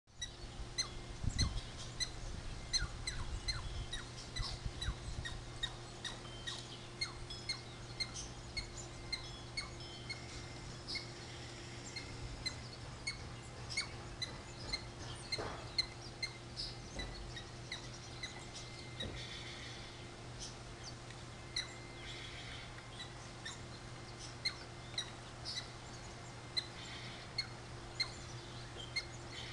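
Small birds chirping: short, high chirps repeated a few times a second, over a steady low hum.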